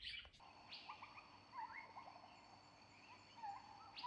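Faint bird calls: scattered short chirps that hook up and down in pitch, over a faint steady high-pitched tone.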